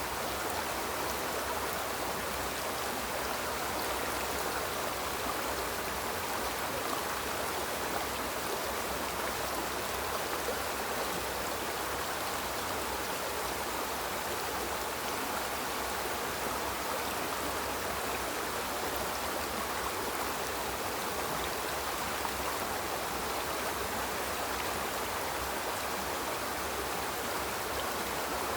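Small river flowing over rocks, a steady rushing and babbling of water without pause.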